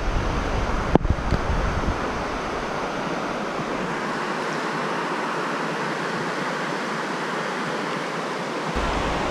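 Steady rush of flowing stream water. Wind buffets the microphone during the first couple of seconds, and there is one sharp click about a second in.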